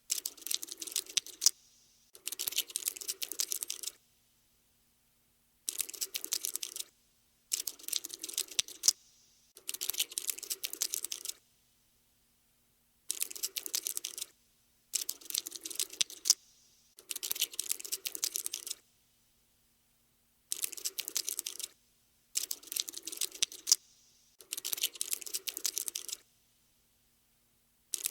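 Cockroach scuttling sound effect: bursts of rapid tiny clicks, each lasting one to two seconds, with short silences between them, about a dozen in all.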